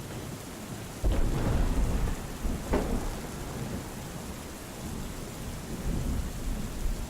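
Steady rain with thunder: a loud low rumble breaks in about a second in, with a sharp crack a couple of seconds later, then rolls on under the rain.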